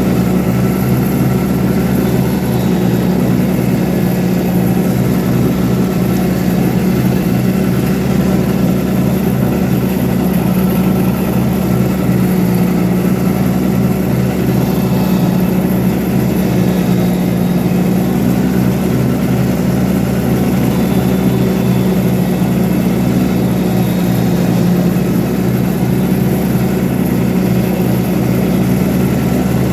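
Iseki TMG18 compact tractor's diesel engine running at a steady speed, its tone and loudness unchanged throughout.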